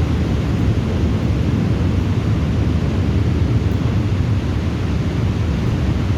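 Heavy thunderstorm rain: a steady rushing hiss, with a low rolling rumble of thunder underneath.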